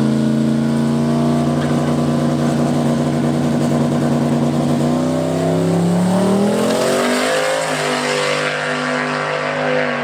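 Drag race car's engine running loud at a steady pitch, then rising over about two seconds around the middle and holding at the higher pitch.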